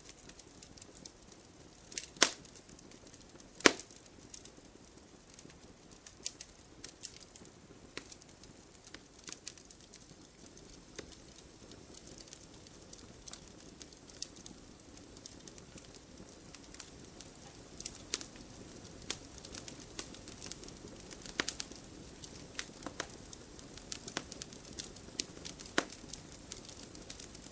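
Wood campfire crackling: irregular sharp pops and snaps over a soft steady hiss, with two louder pops about two and three and a half seconds in.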